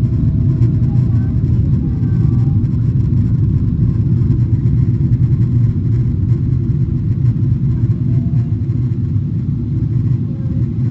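Steady low rumble inside the cabin of a Boeing 777-300ER, from its GE90 engines and the airflow around the fuselage.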